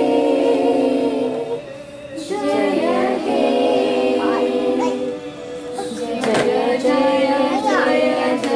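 A group of children singing together in unison, holding long notes, with short breaks between phrases.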